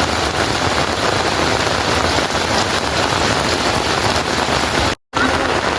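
Steady, heavy rain pouring down on surfaces, a dense even hiss, which cuts out for an instant about five seconds in before resuming.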